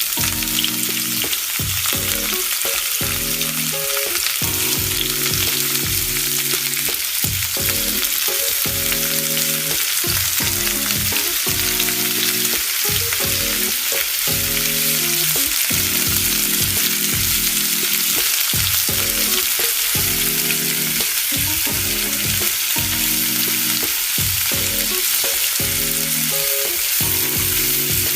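Food frying over a campfire, a steady sizzling hiss.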